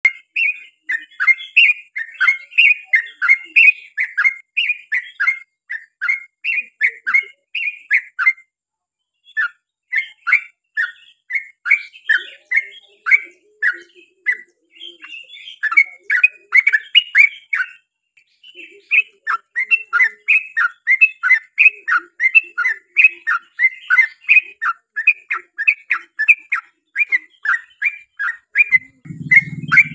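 Yellow-vented bulbul (trucukan) singing a long, rapid run of bubbly chattering notes, about two or three a second, with short breaks about eight and eighteen seconds in. A low hum comes in near the end.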